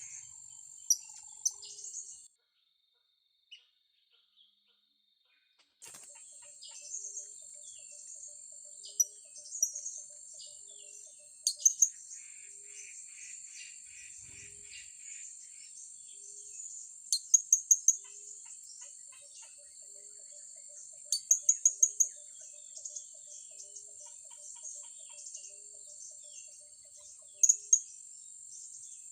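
Blue-crowned hanging parrots giving short, sharp, high-pitched chirps, several times in quick runs of three to five, over a steady high insect drone. The sound drops out for a few seconds near the start.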